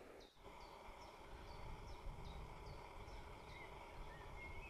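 A bird calling with a regular run of short, high, falling notes, a little over two a second, that stops about three and a half seconds in; a few softer, lower chirps follow near the end. A low rumble of outdoor background noise runs underneath.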